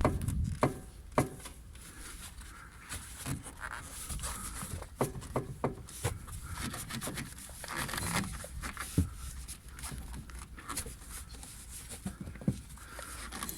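Irregular light clicking and knocking over a steady low rumble: a 'katakata' rattle from the car's front suspension. The owner suspects it comes from a camber-adjustable pillow-ball upper mount, where the stock thrust bearing sits at an angle to the top of the spring and does not seat properly.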